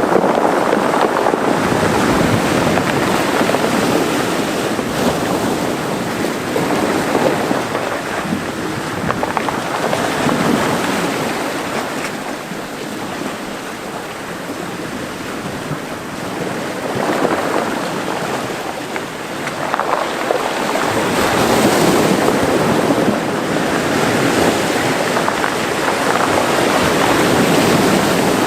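Small Mediterranean waves washing into a rocky cove, the surf swelling and ebbing every few seconds, with some wind on the microphone.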